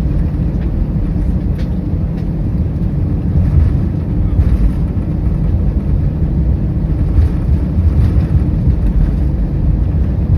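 Steady low rumble inside an Airbus A319 cabin on the ground after landing, with faint light rattles now and then.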